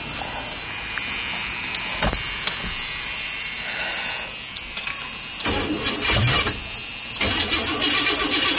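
Chevrolet El Camino engine being cranked to start, with two louder spells later on as it tries to fire but does not settle into running; it is slow to catch and wants a little gas.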